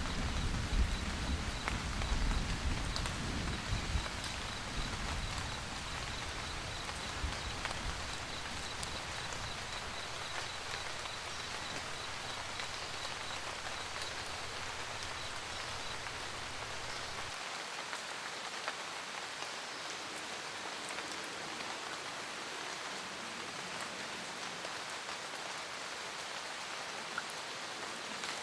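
Steady rain pattering on a roof, with the tail of a low thunder rumble fading out over the first several seconds. A faint high-pitched chirp repeats a few times a second through the first half.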